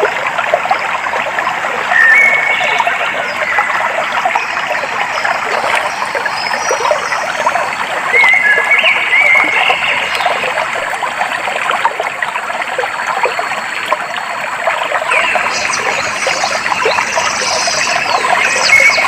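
Clear stream water trickling and splashing steadily, with short bird chirps a few times over it, around two seconds in, again near the middle and towards the end.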